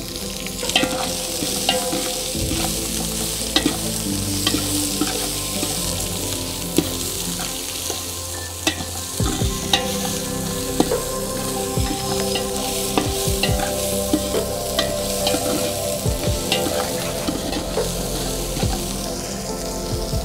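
Chopped shallots frying in hot oil with mustard seeds, dried chilli and curry leaves in an aluminium pot, a steady sizzle: the tempering for a soup. A metal ladle stirs them, scraping and clicking against the pot many times.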